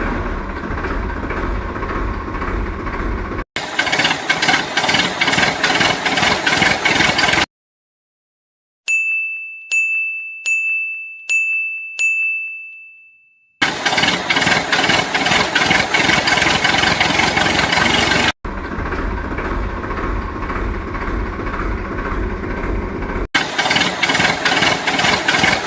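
Steady machine running noise in several abruptly cut segments, some with fast rattling clicks. In the middle, after a brief silence, five ringing dings about half a second apart, each fading away.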